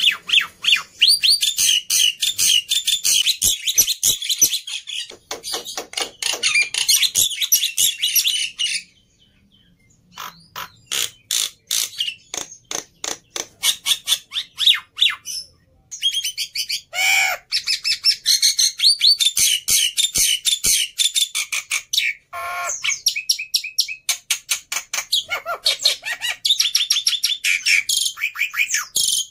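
Black-winged myna (jalak putih) singing a long, fast, varied song of high chattering and whistled notes, mixed with a few harsher squawking calls. It breaks off briefly twice.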